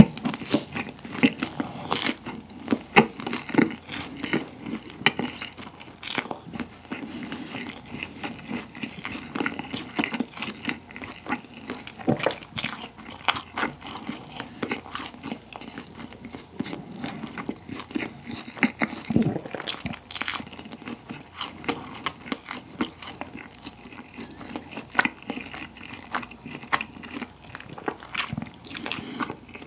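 Close-miked biting and chewing of a crusty pollock-roe (myeongnan) baguette: a bite, then irregular crunching and crackling of the crust as it is chewed, denser in the first half.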